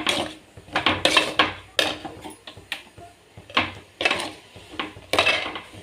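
A spoon stirring and scraping around a cooking pan, mixing ginger-garlic paste into fried onions and tomatoes, in a dozen or so irregular scrapes and knocks.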